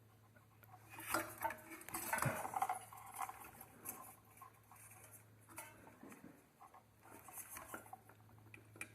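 Small metallic clicks and rustling of hand tools and wire being handled, as the green insulation on a ground wire is cut back so the wires will twist together.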